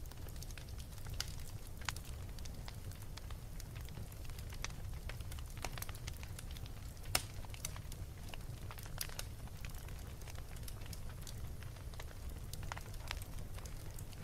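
Wood fire in a fireplace crackling: irregular pops and snaps over a steady low rumble, with one sharper pop about halfway through.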